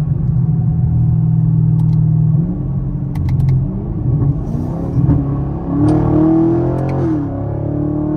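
Chevrolet Camaro engine under hard acceleration. The note holds steady at first, then changes after about two and a half seconds and rises and falls in pitch.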